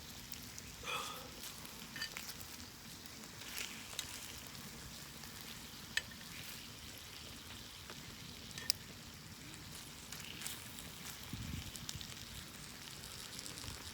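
Marinated meat frying faintly over a wood fire in a fire pit: a soft, steady sizzle with occasional sharp pops and crackles.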